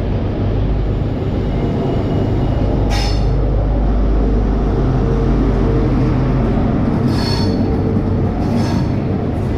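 A diesel passenger train at a station platform, its engine rumbling steadily, with short high-pitched wheel or brake squeals about three seconds in, again around seven seconds, and just before the end.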